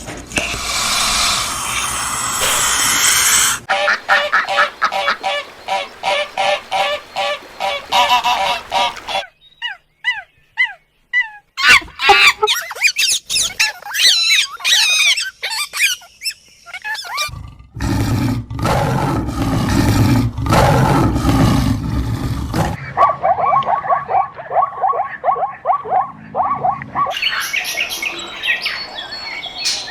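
A run of different animal and bird calls cut one after another, changing abruptly every few seconds. It includes rapid repeated pitched calls like honking, bursts of high bird chirps, and a loud noisy stretch.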